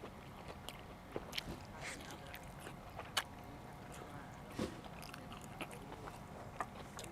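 A person chewing and biting food, with irregular crisp crunches and mouth clicks.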